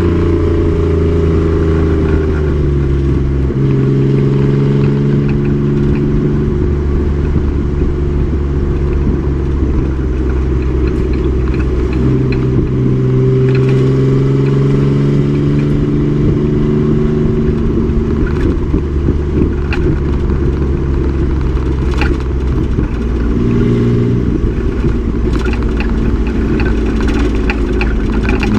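A race truck's engine pulling hard on track. Its pitch climbs slowly and drops back several times as the revs rise and fall, with a few sharp clicks and rattles near the end.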